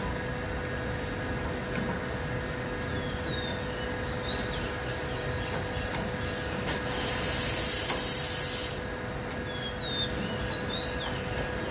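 A click, then compressed air hissing for about two seconds, over a steady background hum.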